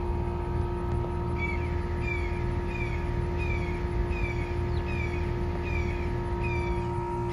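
2008 Carrier Performance Series heat pump running in cooling mode, with a steady compressor hum and condenser fan rumble. From about a second and a half in, a bird calls over it with a short falling chirp repeated about every two-thirds of a second.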